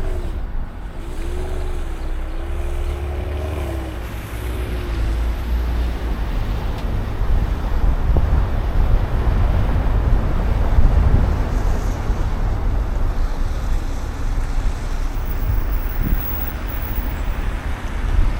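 City street traffic noise: cars and trucks passing with a steady low rumble. A faint wavering tone is heard for a few seconds about a second in.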